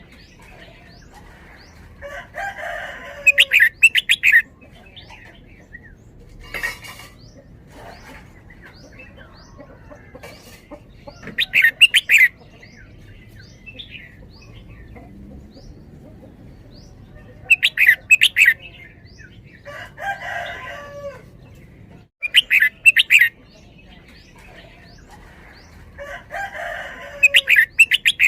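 Red-whiskered bulbul singing its loud, fluty song in short bursts every few seconds, some phrases coming in close pairs, with faint chirps in the gaps.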